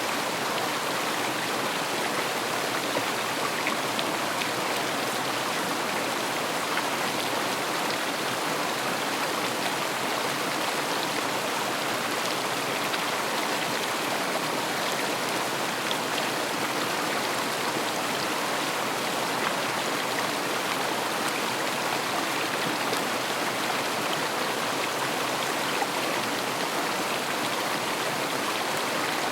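River water flowing steadily: a continuous, even rushing with fine splashing throughout.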